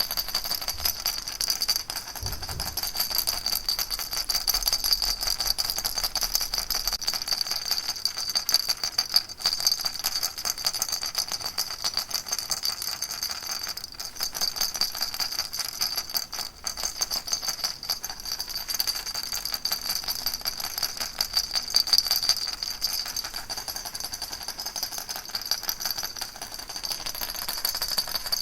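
Baby rattle shaken without pause: a dense, steady rattling of many small rapid hits with a bright, high edge.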